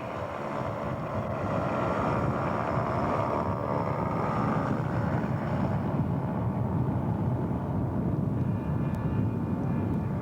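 Radio-controlled scale model airplane engine running steadily as the model taxis out.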